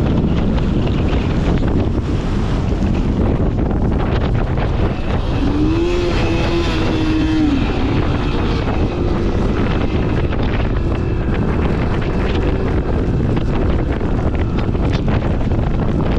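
Strong desert wind storm buffeting the microphone in a steady, heavy rumble. A brief held tone lasts about two seconds near the middle.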